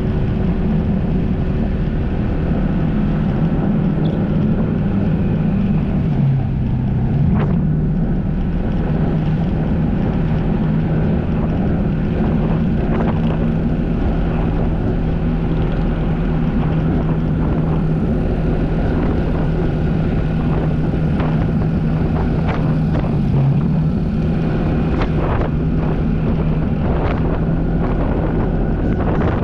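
Watercraft engine running at a steady speed, its pitch dipping briefly twice.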